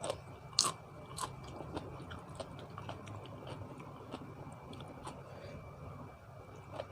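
A person chewing and crunching food close to the microphone, with irregular crisp crackles, the loudest about half a second in. This is mukbang-style eating of a spicy Thai seafood papaya salad with fresh vegetables.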